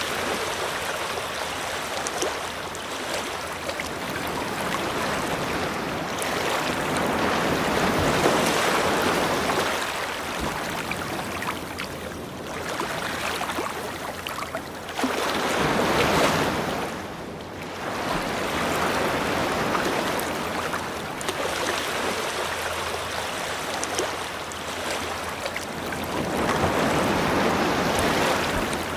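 Ocean surf breaking and washing up a beach, the rush of water swelling and falling back every few seconds.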